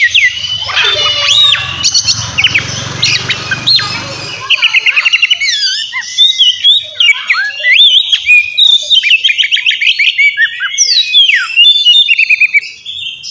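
Oriental magpie-robin (kacer) singing loudly: a continuous, varied song of whistled notes, sweeping slurs and fast rattling trills. A faint low rumble lies under the song for its first few seconds.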